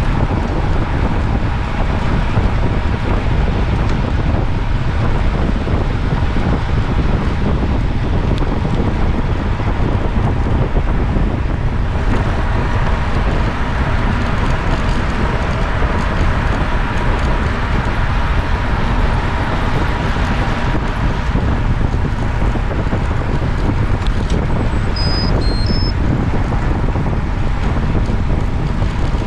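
Heavy, steady wind noise buffeting the microphone while moving along a road, with a few short high-pitched beeps about three quarters of the way through.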